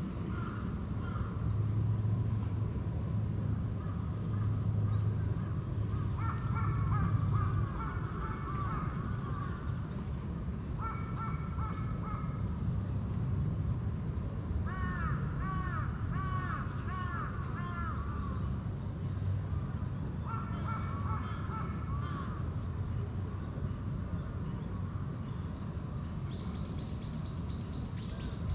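Wild birds calling in several bursts of repeated, harsh, arched notes a few seconds apart, with a quicker, higher-pitched series of calls near the end, over a steady low background rumble.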